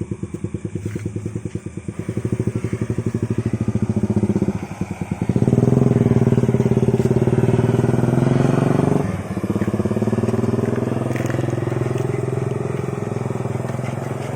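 Vespa scooter engine running: a rapid, even pulsing idle at first, then revved up about five seconds in and held, dipping briefly near nine seconds before rising and falling again.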